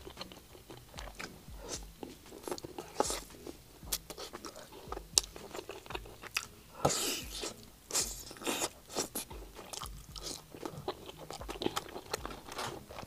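Close-up eating sounds of a person biting and chewing stewed pork meat off a rib bone: irregular short clicks and smacks of the mouth and teeth, with brief pauses between bites.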